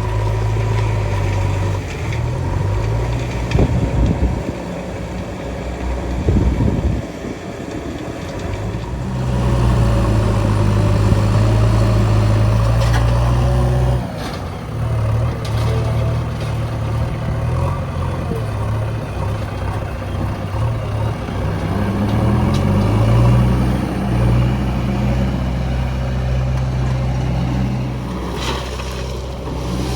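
Heavy diesel engines of backhoe loaders and trucks running, revving up and down in spells as the machines work, with a few brief rushing noises.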